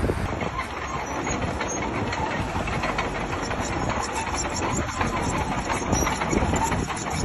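Heavy diesel earthmoving machine running, with a rapid steady clanking that fits bulldozer tracks moving.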